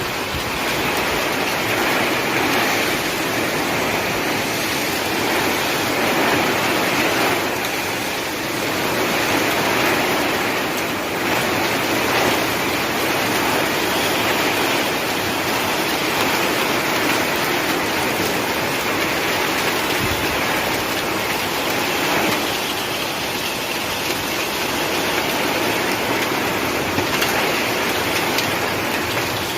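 Heavy rain mixed with hail pouring down in a storm: a steady, dense rush of noise without let-up.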